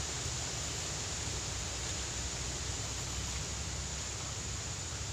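Steady outdoor background noise: an even hiss with a low rumble underneath, with no distinct events.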